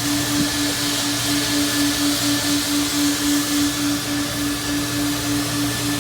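Car wash machinery running steadily: a motor's whooshing rush with a low hum, and a tone that pulses about four times a second.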